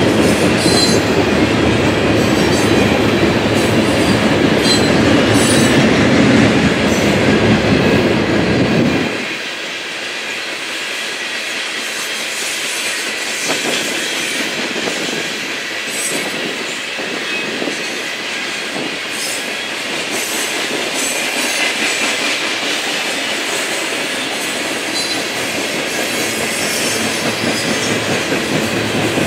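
Norfolk Southern coal hopper cars rolling past on the rails, with a steady rolling noise and scattered wheel clicks. A deep rumble under it drops away abruptly about nine seconds in, leaving the lighter rolling and clatter of the cars.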